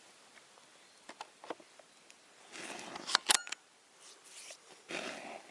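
Scattered clicks and rustling, with a cluster of loud sharp clicks about three seconds in.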